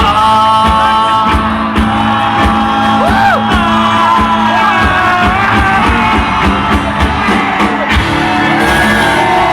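Live rock band playing loudly with a steady drum beat and singing, with shouts and whoops over the music.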